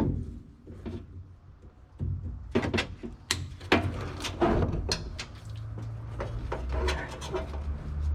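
Hand work on the wiring of a truck cab door, including a zip tie being snipped: a string of sharp clicks and knocks, with a low hum coming in about halfway through.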